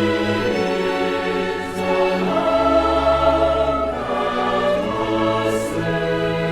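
Symphony orchestra and choir performing classical choral music, holding sustained chords that shift every second or two, with a deep bass note entering for a while about two and a half seconds in.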